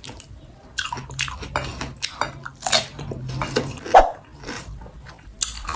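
Close-up eating sounds: crunchy chewing with irregular crisp bites, the loudest about four seconds in.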